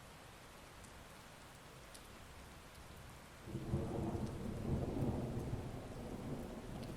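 Steady heavy rain, then about halfway through a clap of thunder breaks in suddenly as a loud, low rumble that slowly dies away.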